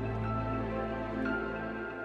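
Soft new-age background music: a low sustained drone with slow held synth-pad notes.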